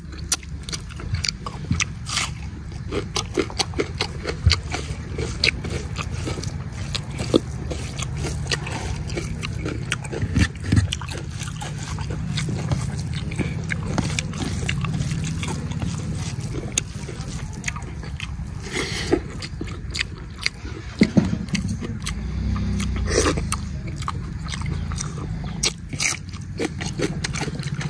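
A man eating chicken curry and rice with his hands, close to the microphone: wet chewing, lip-smacking and mouth clicks as he bites meat off a chicken leg and eats handfuls of rice, over a steady low hum.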